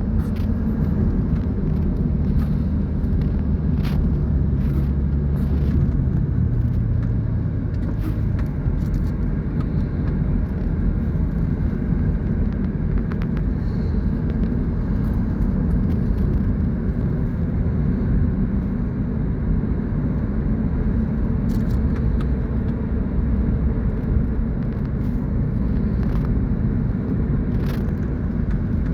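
Car engine and road rumble heard from inside the car on a steady drive, with the engine hum rising in pitch over the first several seconds.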